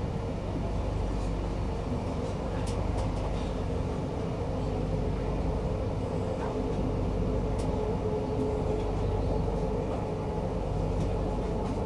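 Passenger train running between stations, heard from inside the carriage: a steady rumble with a faint even hum and a few light ticks from the wheels and carriage.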